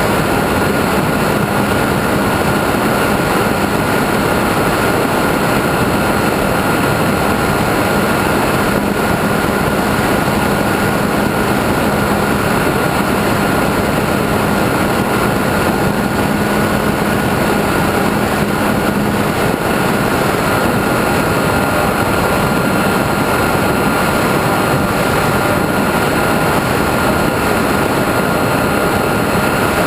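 RC model airplane in flight, heard from its onboard camera: a steady rush of wind with the motor and propeller holding one even high pitch. A lower hum under it fades out about two-thirds of the way through.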